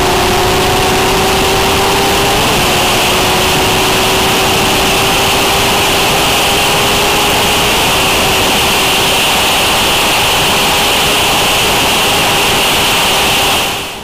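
A 2013 Honda CBR1000RR's inline-four with a Two Brothers slip-on exhaust pulling hard at high speed in a high gear, its note rising slowly and steadily, under heavy wind rush on the onboard microphone. The sound fades out near the end.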